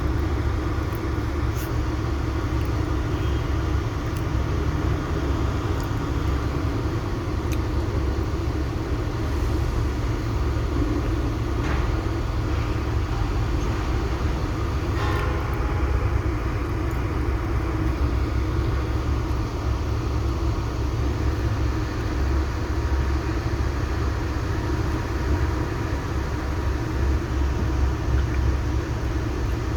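Heavy mining vehicle engine running steadily, with a continuous low rumble.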